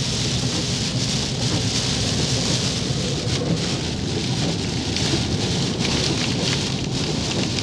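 Heavy tropical-storm rain pelting a moving car's windshield and body, heard from inside the cabin as a dense, steady hiss over a steady low rumble.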